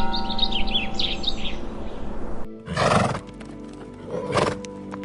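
Songbird chirping over soft background music, then a horse's two short, breathy bursts about a second and a half apart, followed by scattered light clicks.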